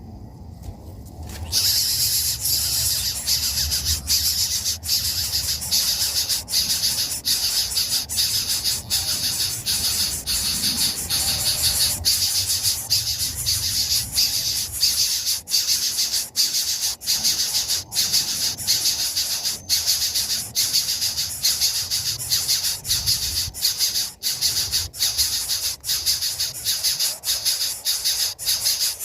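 A loud, steady, high-pitched insect chorus, such as cicadas or crickets, starts abruptly about a second and a half in and keeps going with frequent brief dips. A low rumble runs underneath.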